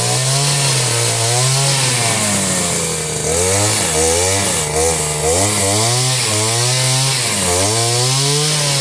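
Chainsaw cutting, its engine pitch sagging and climbing back again and again as the chain bites into the wood and comes free.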